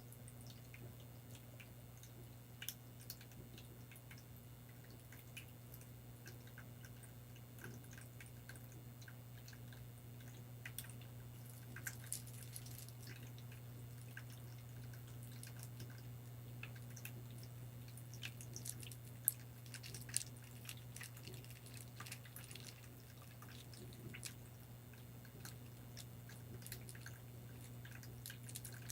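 Faint water dripping, with scattered small drips and ticks over a steady low hum.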